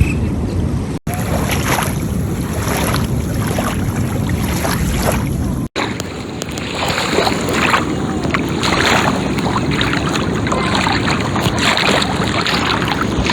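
Sea water splashing and lapping under wind rumbling on the microphone, in three short takes with abrupt cuts about a second in and near the middle.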